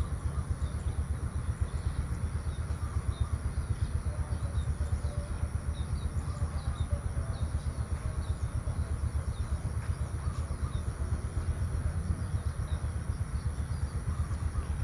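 Rural outdoor ambience: a steady low rumble that flutters rapidly in level, with small birds chirping over and over and a steady high hiss above.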